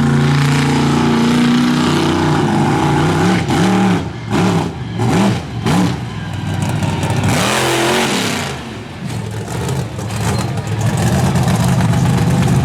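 Monster truck engine running hard, then revved up and down in about five quick throttle blips, with one longer rev before it settles back to a steady high-rev run.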